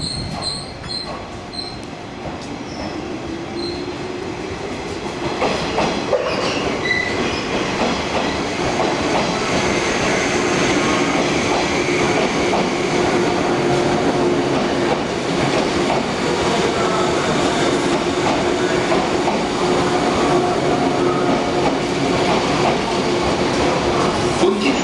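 A JR 185 series electric multiple unit pulls out of a terminal platform and rolls past, with steady rolling noise and held squealing tones from the wheels. It gets louder about five seconds in and then stays loud as the cars go by.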